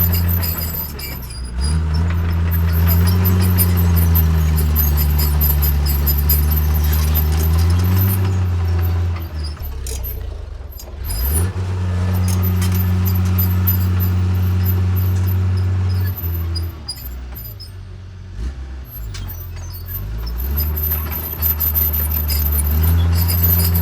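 Diesel engine of a Caterpillar D3C bulldozer working under load, its pitch rising and falling as the load changes, with two short drops in engine note, about ten seconds in and again around seventeen to twenty seconds in, and faint metallic clinking.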